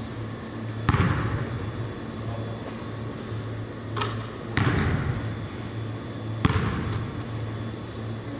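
Basketballs hitting a hard gym floor, a few separate sharp thuds that echo around the hall, over a steady low hum.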